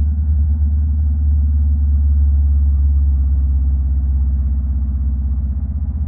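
2023 Honda Rebel 500's parallel-twin engine through a Vance and Hines exhaust, running steadily with a deep, evenly pulsing note and no revving.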